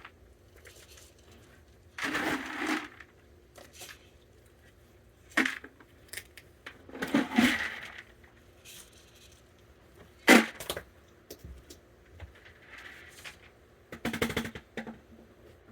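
Dry pet kibble rattling as it is scooped and poured out, in several short bursts, with a sharp click about ten seconds in.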